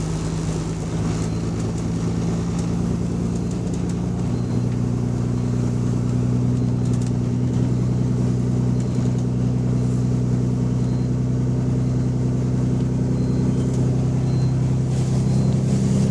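Bus engine running with a steady droning note that steps up in pitch about four seconds in and grows slightly louder. The bus has an exhaust leak.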